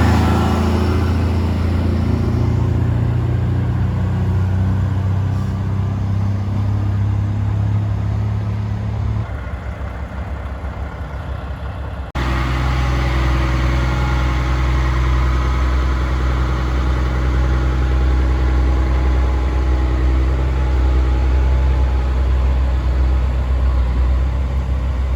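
Heavy diesel truck engine idling steadily. About 12 seconds in the sound cuts off abruptly and a steadier, deeper engine idle takes over.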